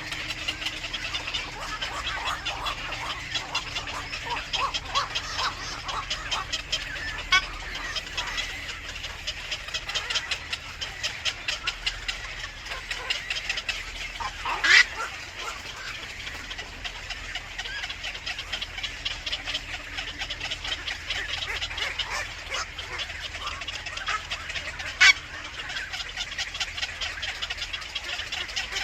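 Baby birds chirping and peeping in a rapid, unbroken stream of short high calls. There are two louder sharp calls, one about halfway through and one a few seconds before the end.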